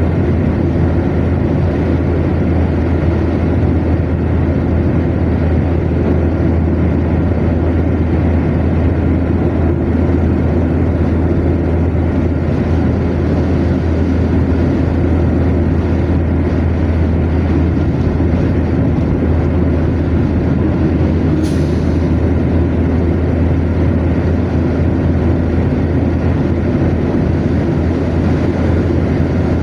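A car driving at motorway speed: steady tyre-and-road rumble with engine drone, a constant low rumble that does not change. A brief high-pitched tick about two-thirds of the way through.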